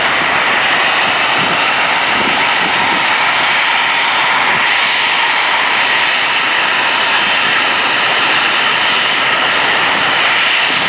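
Boeing 737-300's CFM56-3 turbofan engines running: a steady rush of jet noise with a thin, high, continuous whine.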